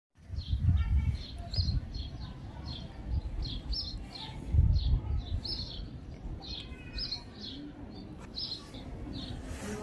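Small birds chirping repeatedly, about two or three short high chirps a second, with two brief low rumbles about half a second in and midway.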